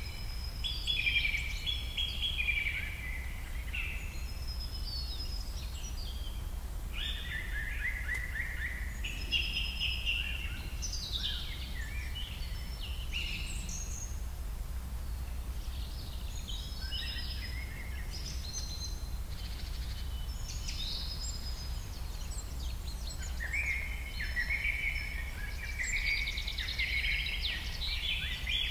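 Birds chirping in quick, high, sweeping calls that come in clusters, over a steady low hum.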